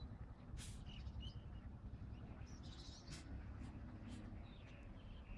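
Birds chirping in short calls over a steady low rumble, with a few sharp clicks.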